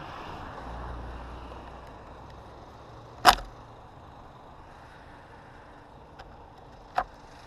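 Honda CBR125R going down on an icy road: a low engine hum, then a single loud sharp impact about three seconds in, with a smaller knock near the end.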